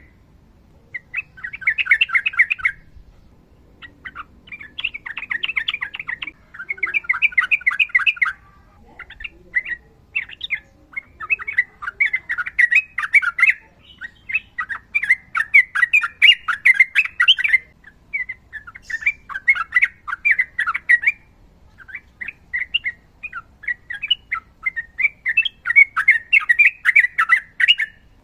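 Sooty-headed bulbul singing loudly in long runs of rapid rolling, chattering notes. The phrases come one after another, each about one to two seconds long, with brief pauses between.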